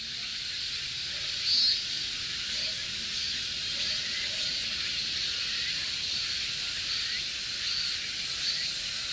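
Cicadas singing: a steady high-pitched buzzing hiss, with a brief louder buzz about one and a half seconds in.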